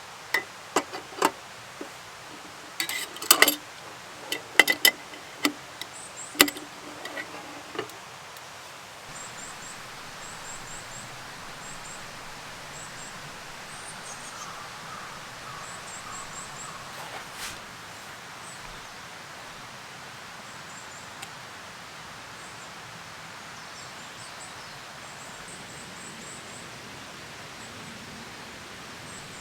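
A run of clicks and knocks, several ringing briefly like metal, as camp gear is handled over the first eight seconds. Then a steady outdoor hiss with repeated short, high chirps.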